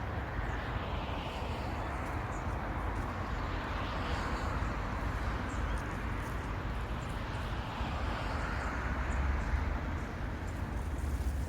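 Steady outdoor background noise with a low rumble and faint scattered ticks, like distant traffic.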